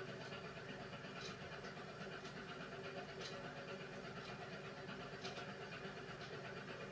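Beko WMY81283LMB2 washing machine partway through its hand wash cycle: a steady motor hum as the drum turns gently, with a soft swish of water and washing about every two seconds.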